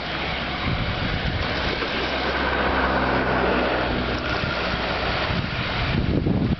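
Boeing 737-800's CFM56 jet engines running, with a faint whine that rises slightly in the middle of the stretch. Wind buffets the microphone near the start and again near the end.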